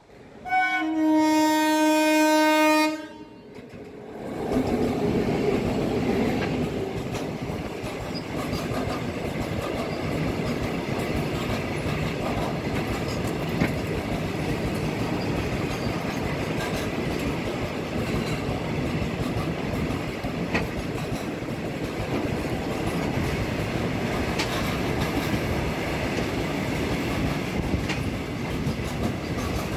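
A WAG-9 electric locomotive sounds its horn in one long, steady blast of about two and a half seconds. A moment later its loaded freight train of open wagons runs past close by, with a loud, even rumble of wheels on rail and scattered sharp clanks.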